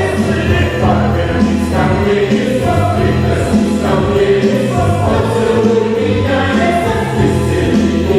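A choir singing long held notes over instrumental backing with a steady low bass.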